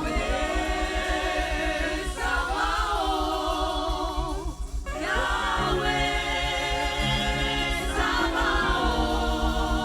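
Many voices singing a slow worship chorus together, with long held notes that glide between pitches.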